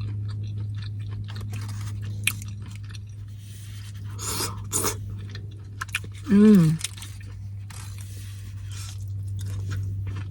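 Close-up chewing and crunching of tortilla chips topped with carne asada and salsa, with many small crisp crunches. A short falling vocal "mm" sounds about six and a half seconds in, over a steady low hum.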